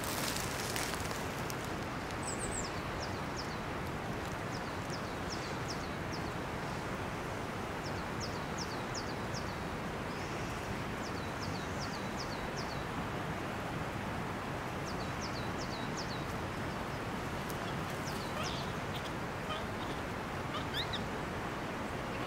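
A small songbird singing runs of short, high, downward-slurred notes, repeated again and again, over a steady hiss of outdoor background noise.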